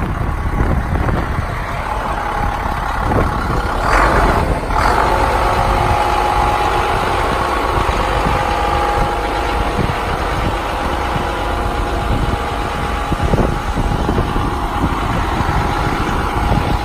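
The 2003 International 7400 bucket truck's diesel engine idling with the PTO engaged, driving the hydraulic pump, with a steady whine above the engine. Two short bursts of noise come about four seconds in. Wind buffets the microphone throughout.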